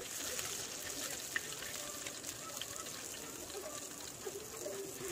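Masala-coated fish steaks shallow-frying in oil on a flat tawa, sizzling steadily with many small pops and crackles.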